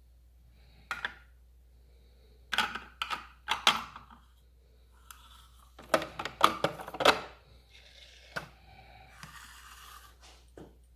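Plastic clicks and knocks from a Nespresso De'Longhi Essenza Mini coffee machine being handled, coming in several clusters, with a softer rustling stretch near the end.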